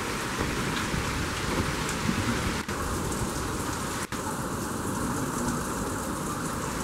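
Hurricane rain pouring steadily, with gusting wind, a constant hiss with a low rumble under it. The sound cuts out very briefly twice, about two and a half and four seconds in.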